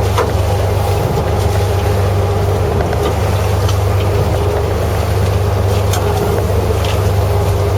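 Fishing boat's engine running steadily: a constant low drone heard on board, with a few faint clicks over it.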